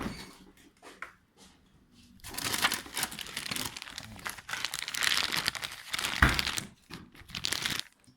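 Crinkling and crumpling, starting about two seconds in and running until just before the end, with a single low thump about six seconds in.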